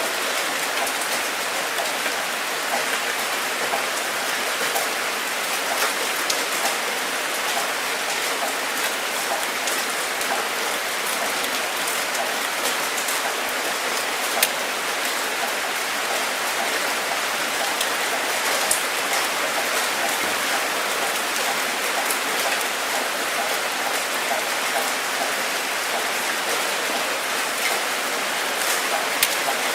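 Steady rainfall, an even hiss with scattered close drops ticking sharply on a surface.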